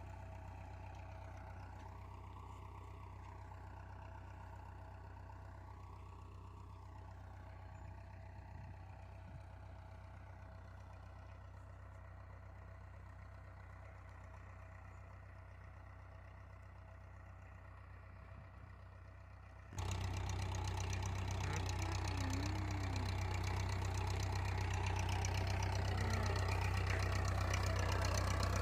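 Tractor engine running steadily with a low hum. About two-thirds of the way through, the sound cuts abruptly to a louder, closer engine running.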